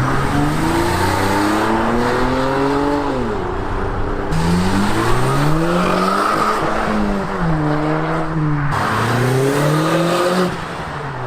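A car engine revving as a car pulls away, its pitch climbing and dropping back about four times.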